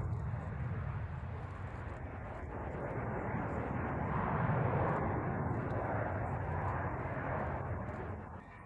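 Avro Vulcan's four Olympus turbojets as a low, steady jet rumble that swells about halfway through and drops away near the end.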